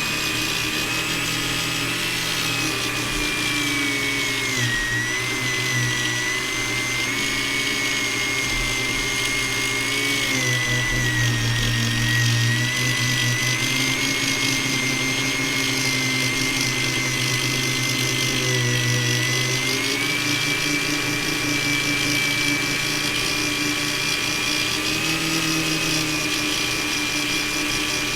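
Dremel rotary tool polishing a plastic AirPods Pro case, its high motor whine running steadily. The pitch sags for a long stretch in the middle, as if the tool is bogging under pressure, then rises again.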